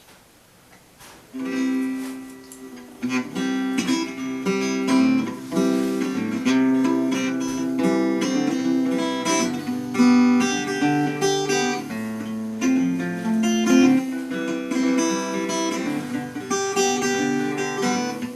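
Acoustic guitar strummed in a steady rhythm, playing the opening of the song, starting about a second in.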